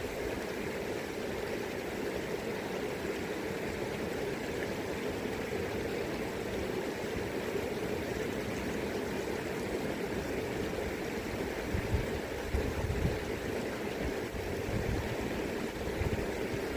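River current rushing and gurgling in a steady wash of water noise, with a few brief gusts of wind buffeting the microphone about twelve and fifteen seconds in.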